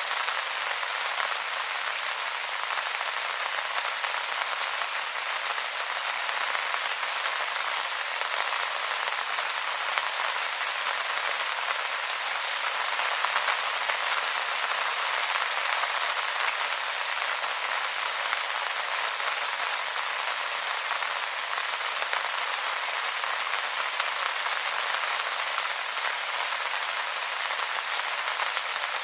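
Steady rain falling on wet leaves, a dense even patter of raindrops with no low rumble.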